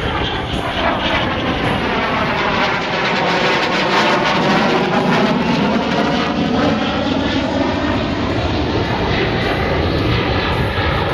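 Jet noise from an F-35B Lightning II flying past with its lift-fan doors open for short takeoff / vertical landing mode. The loud, steady noise swells to a peak about four to five seconds in, with a sweeping whoosh as it goes by.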